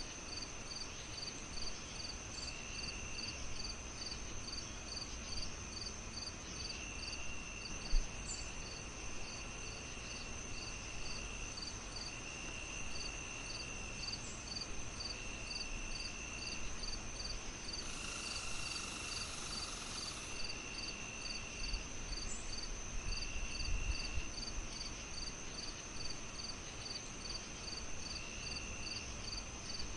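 Crickets chirping steadily at about two chirps a second, over a constant high insect drone. A higher trill comes and goes in bursts of a second or so, and a denser insect buzz rises briefly in the middle. A single sharp thump about eight seconds in stands out over a low even background noise.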